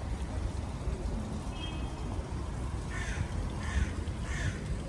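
A bird cawing: three short, harsh calls about two-thirds of a second apart, starting about three seconds in, over a steady low outdoor rumble.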